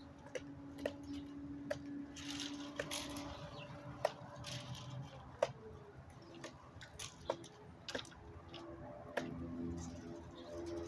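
Irregular sharp clicks and taps over a faint steady hum, with the low, repeated cooing of a dove coming in near the end.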